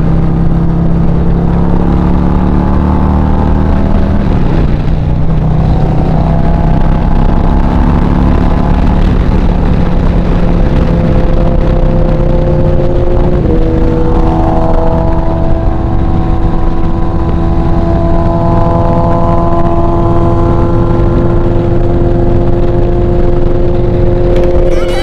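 Motorcycle engine running under way, its pitch stepping down sharply at gear changes about 4 and 13 seconds in and holding steady between.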